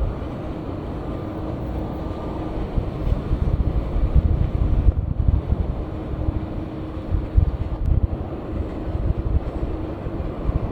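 Jet airliner engines rumbling at an airport runway, a low, uneven roar with faint steady tones above it.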